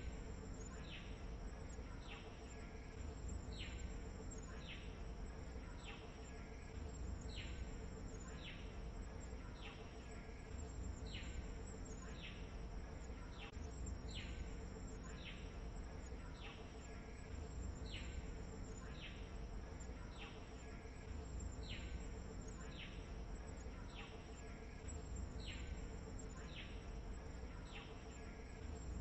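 Outdoor nature ambience: a steady high insect buzz, with a short falling call repeated about every three-quarters of a second and a low rumble underneath.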